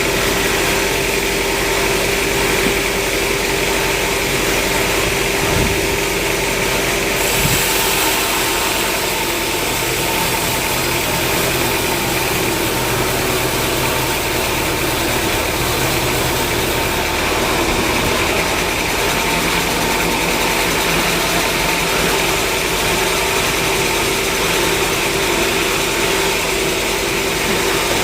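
Sawmill machinery running steadily, a constant mechanical hum with a held whine, with two brief knocks about six and seven and a half seconds in.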